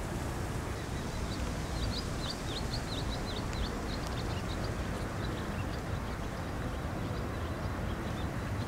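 Small birds chirping, a quick flurry of short, high chirps that thins out in the second half, over a steady low background rumble.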